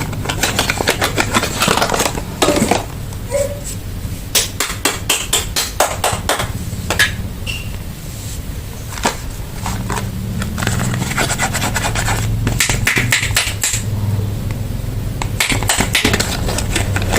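Soap packaging being handled and opened: crinkling, rustling and many quick taps and clicks, in irregular clusters, over a low steady hum.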